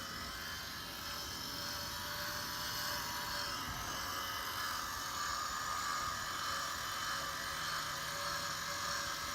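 Small electric motor whirring steadily, with a faint hiss, getting slightly louder after about two seconds.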